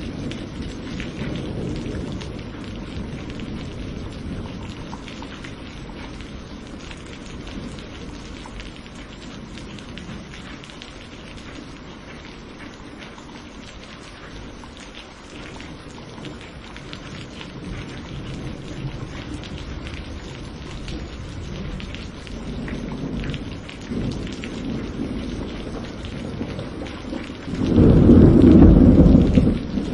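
Thunderstorm: steady rain hissing, with thunder rolling. A low rumble dies away over the first few seconds, the rain carries on more quietly through the middle, and a loud peal of thunder breaks near the end.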